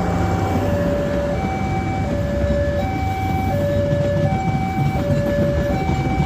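Two-tone warning signal alternating steadily between a lower and a higher pitch, each held for about three quarters of a second, over a steady low rumble.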